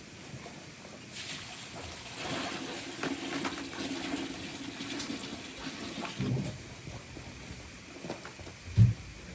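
Hot water being poured out for the animals to drink, splashing and filling for a few seconds, with a single dull thump near the end.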